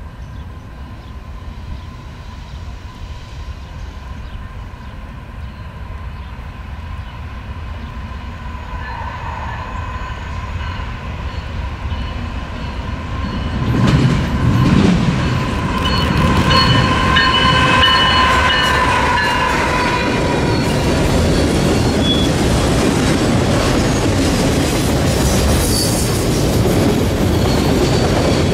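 Freight train passing close by. Its rumble builds, and from about halfway through the wheels clatter steadily over the rail joints. A faint high-pitched squeal runs through the first two-thirds.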